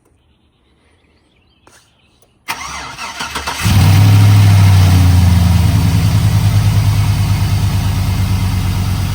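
Chevrolet Silverado's 5.3-litre V8 being started: after a short quiet, the starter cranks it for about a second before it catches, flares up and settles into a steady idle. With the new factory valve covers and gaskets on, the owner hears no vacuum leak.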